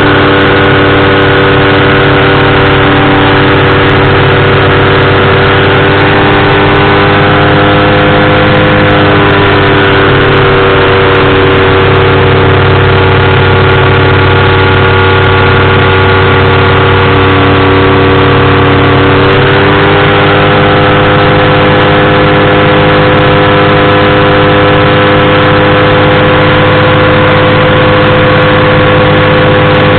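Powered parachute's engine and propeller running loud and steady in flight. The pitch eases down about ten seconds in as the throttle comes back, then rises again at about twenty seconds.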